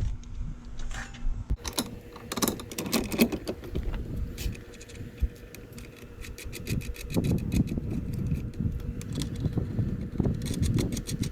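Metal clinking, knocking and rattling as the camper jacks and their hardware are handled and bolted on, with irregular clicks and a couple of short runs of quick, evenly spaced clicks.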